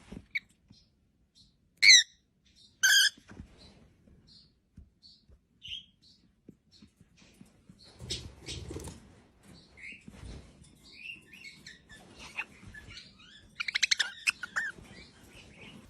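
Parrot calls: two loud, short squawks about two and three seconds in, then scattered chirps and chattering, with a quick buzzy trill near the end.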